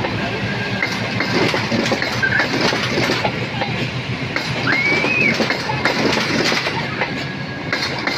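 Train passing close by, its wheels clattering steadily over the rail joints, with a few short high-pitched squeaks.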